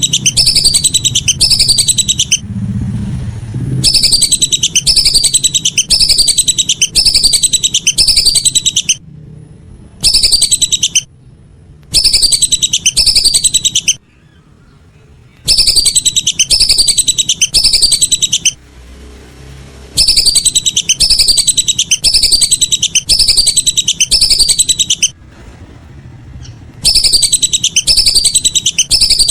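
Whistling ducks (belibis) giving high whistled calls in loud bursts of a few seconds, each note sliding down in pitch, about two notes a second, with short pauses between bursts.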